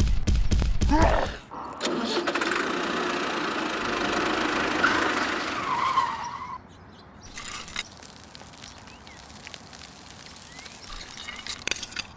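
Loud low thumps at the start, then a motor running steadily for about five seconds before dropping away to faint scattered clicking.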